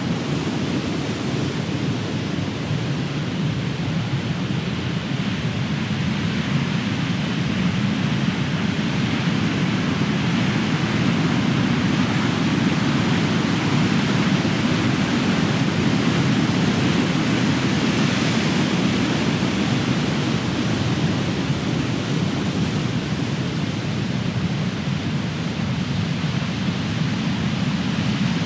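Large ocean waves crashing and washing up the shore, a steady rumbling surf that swells and eases slowly as the waves break.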